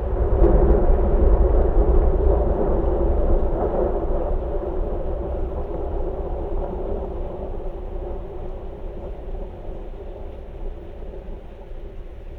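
Thunder: a deep rolling rumble that swells just after the start and slowly fades away.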